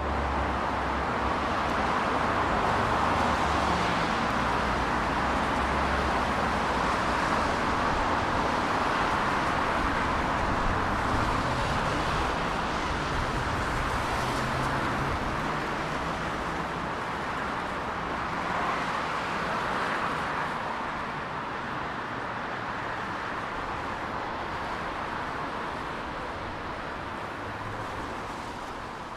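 Steady city traffic noise, fading out near the end.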